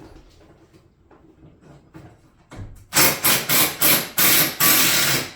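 Impact wrench run in a string of short, loud bursts, about six in two seconds, working a fastener loose. A single knock comes just before.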